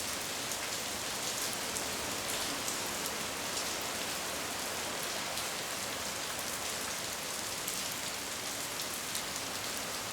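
Steady heavy tropical rain falling, a dense hiss with many small drop ticks.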